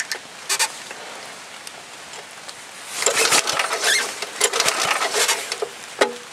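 Cold 5 hp Tecumseh H50 single-cylinder flathead go-kart engine being pull-started: about three seconds in it cranks and sputters in a quick run of pulses for about three seconds without catching, the cold, rain-soaked engine failing to keep running.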